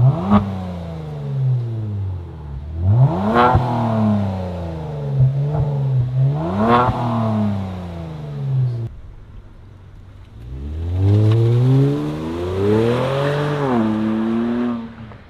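2019 Kia Stinger GT's twin-turbo 3.3 L V6 revving through a muffler-delete exhaust, with 2 1/4-inch piping and the resonators still on. It blips three times, falling back to idle between blips, then revs up and holds higher revs for a few seconds before dropping off at the end.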